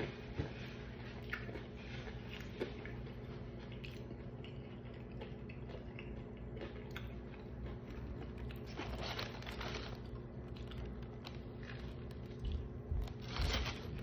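Close-up chewing and biting of crispy fried chicken, with small crunches and mouth clicks over a steady low hum. Two short rustles, one about two-thirds through and one near the end.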